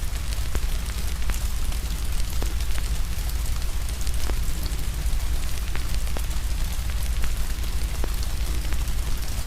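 Steady rain hiss with a fire crackling over it: irregular sharp pops a few times a second, over a constant low rumble.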